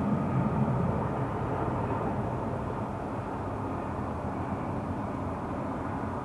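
Jet engines of a Boeing 787-10 Dreamliner airliner, a steady rumble slowly fading as the aircraft moves away.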